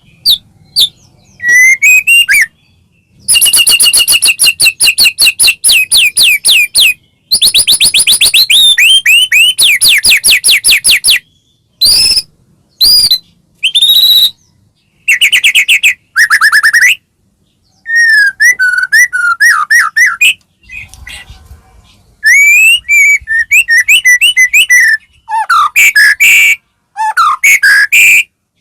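White-rumped shama (murai batu) singing loudly in long, varied phrases: fast runs of repeated whistled notes, rising and falling glides and trills, broken by short pauses. This is the full, energetic 'gacor' song used to provoke other shamas into singing.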